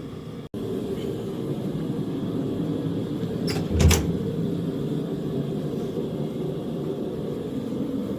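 Vehicle engine idling steadily on a cold start, with a single clunk about four seconds in.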